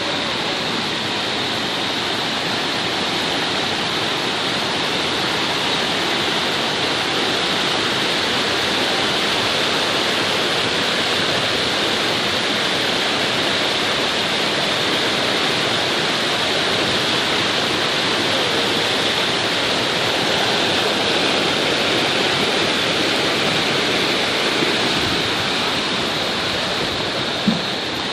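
Waterfall: water rushing steadily, with no swells or rhythm, and a single short knock near the end.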